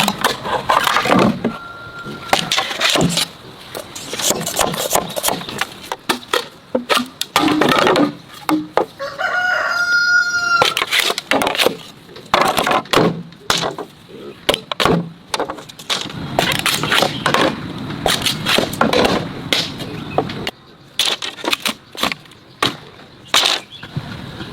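A rooster crows once, a single held call about midway through. Many sharp clicks and knocks run through the whole stretch.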